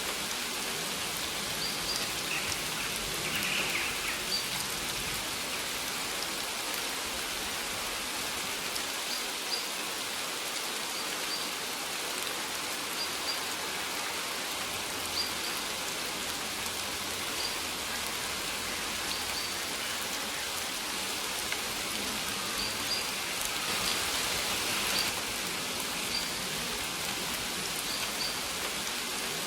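Steady rain falling, an even hiss, with short high bird chirps every second or two.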